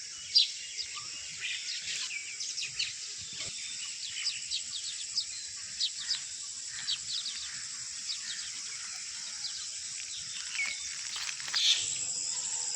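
A flock of mynas calling: many short, sharp chirps and squawks, scattered irregularly, over a steady high-pitched insect buzz.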